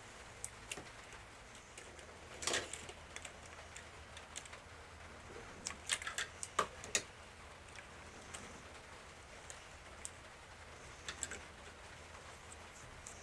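Scattered light clicks and short crackles of electrical insulation tape being wrapped around small plastic toy parts. The loudest cluster comes about six to seven seconds in.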